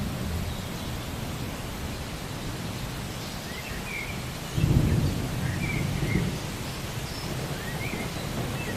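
Steady rain with a rumble of thunder swelling up a little past halfway and fading over a second or two. A few faint, short high chirps sound over the rain.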